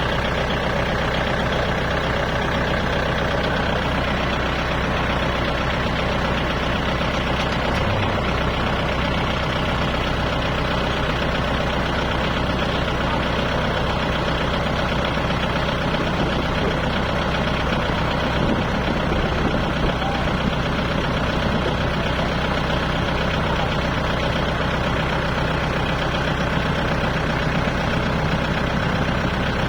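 Kubota tractor's diesel engine running steadily at an even speed, with no revving, while pulling a baler stuck in mud.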